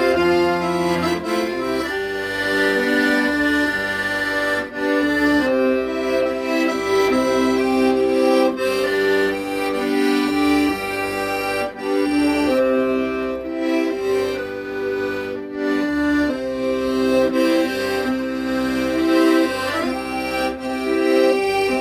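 Solo accordion playing a slow melody in sustained reedy notes over a steady bass and chord accompaniment from the left-hand buttons.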